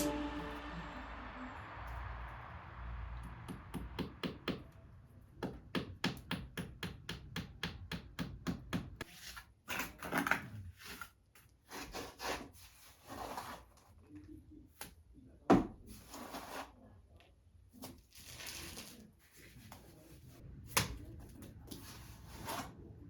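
Hand plastering with clay base plaster: a quick run of light taps, then irregular scraping and rubbing strokes of a trowel, with a few sharp knocks.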